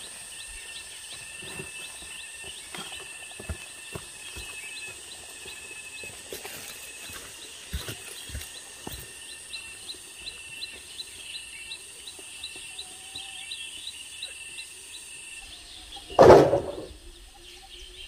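Birds chirping in a quick repeated series over a steady high whine, with scattered sharp snaps and steps on dry brush. One loud thump about sixteen seconds in.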